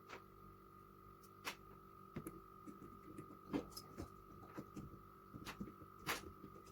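Scattered light clicks and taps of small metal carburettor parts being handled while the choke assembly is fitted, over a faint steady hum.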